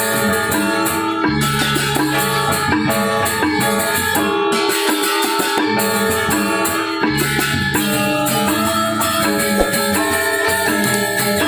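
Balinese gamelan gong ensemble playing: bronze metallophones ringing in interlocking sustained tones over low gong notes, with a bright shimmer of clashing cymbals on top.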